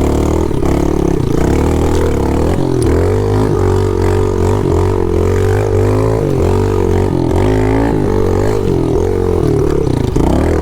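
Pit bike's small single-cylinder engine running hard, its pitch rising and falling again and again as the throttle is opened and closed.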